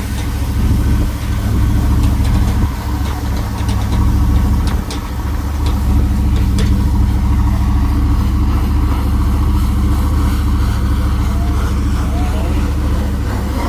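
Heavy deuce-and-a-half military truck engine running steadily at a low idle, with a few light clicks in the middle.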